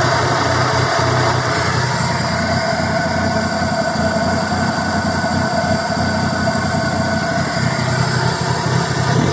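Kia Rio's 1344cc four-cylinder petrol engine idling at a steady level. The engine has a running fault its owner cannot trace: it runs wrong, revs itself and cuts out.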